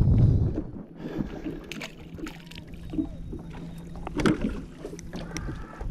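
Wind buffeting the microphone for the first moment, then a quieter stretch with a faint steady low hum and scattered knocks and clicks of handling in a small boat.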